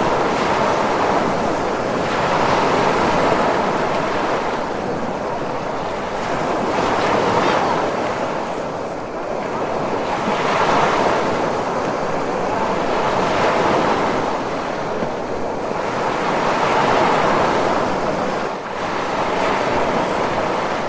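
Ocean surf: a continuous rushing of breaking waves that swells and eases about every three to four seconds.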